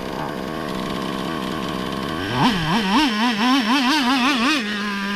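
Small nitro (glow-fuel) RC car engine running, then blipped rapidly about four times a second with the pitch rising and falling, before settling into a steady, higher idle.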